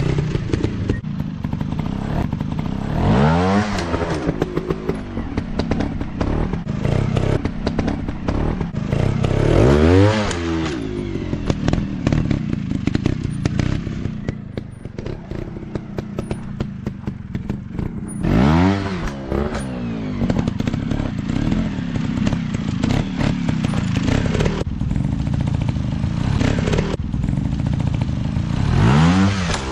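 Dirt bike engines running, with the throttle blipped four times, each rev shooting up in pitch and dropping straight back, over steady clatter and knocking.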